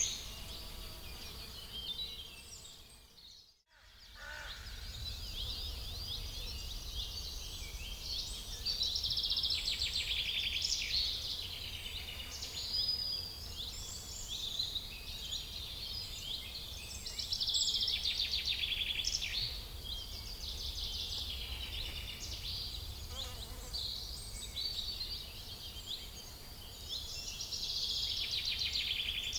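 Small birds chirping and twittering continuously over a faint low rumble. The sound dips briefly to silence about three and a half seconds in, then resumes.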